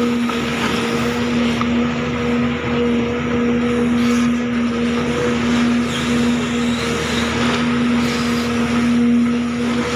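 Case CX220C hydraulic excavator running: a steady diesel-and-hydraulics drone with a constant whine through it.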